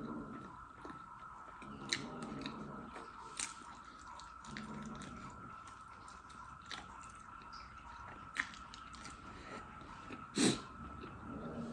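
A person eating in close-up: wet chewing and mouth smacks with scattered sharp clicks, and one louder crunch about ten seconds in.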